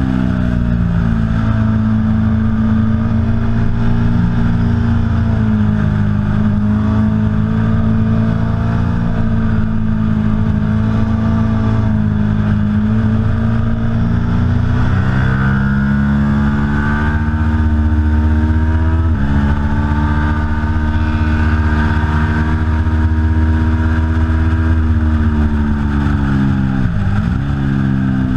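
Aprilia Tuono V4 Factory's V4 engine running hard on track, its pitch climbing under acceleration, dropping suddenly about two-thirds in at a gear change, and dipping sharply then rising again near the end as the rider slows and gets back on the throttle.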